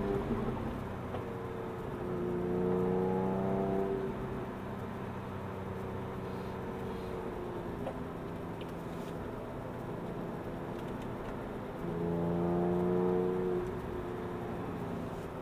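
Porsche 911 Carrera S (997) 3.8-litre flat-six heard from inside the cabin while lapping a track. It pulls hard under throttle a couple of seconds in and again near the end, with quieter part-throttle stretches between.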